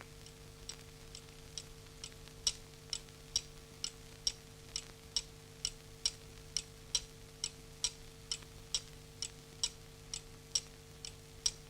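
Steady, evenly spaced ticking, a little over two ticks a second, some ticks louder than others, over a faint low hum.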